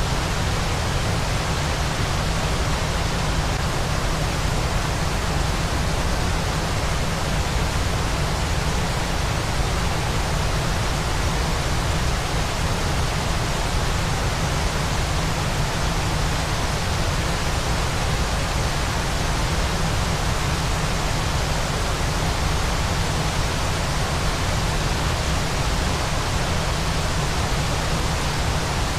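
Steady, unbroken rushing of a waterfall: an even hiss with a strong low rumble and no changes or distinct events.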